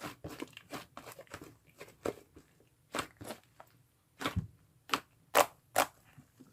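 Slime being pressed and squeezed by hand, giving irregular sticky pops and crackles, with a few louder snaps near the middle and later on.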